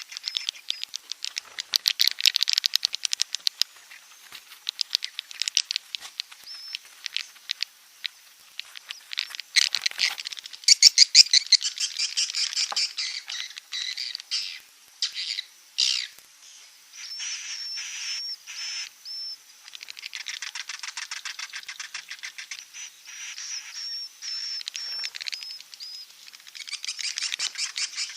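Swiftlet calls: rapid buzzing, clicking chatter and short high chirps in bursts that come and go. This is a lure-call recording of the kind played to draw swiftlets in to nest.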